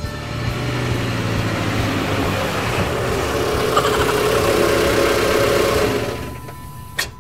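A vehicle engine running steadily, swelling a little past the middle and then fading away near the end, followed by a short click.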